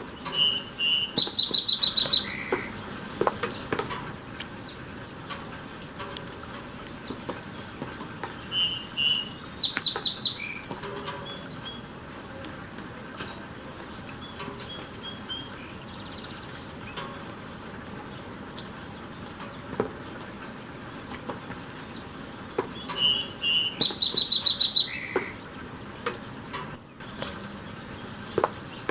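A small bird calls in three short bursts of rapid, high chattering notes, a few seconds apart, over the steady hiss of falling rain.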